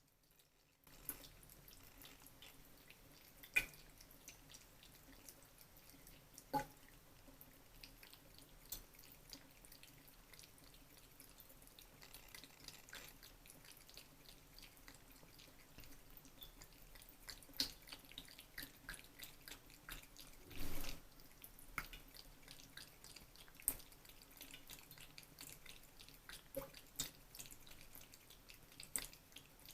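Kitchen tap running a thin stream into the sink, with scattered drips and small wet clicks of a cat lapping the water. The running water grows a little louder about twelve seconds in, and there is one brief louder splash about two-thirds of the way through.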